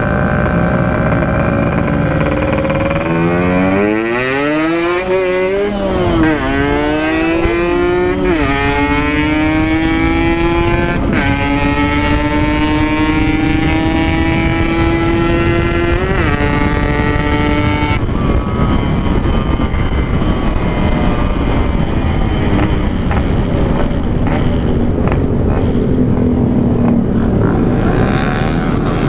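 Yamaha RX-King 135cc single-cylinder two-stroke with a side-exit expansion exhaust, ridden hard and climbing in pitch through the gears, with drops at each shift. In the second half the engine tone gives way to a steadier rush of noise.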